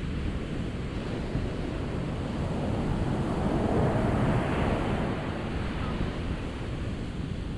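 Ocean waves breaking and washing in, one surge building about three seconds in and easing off again.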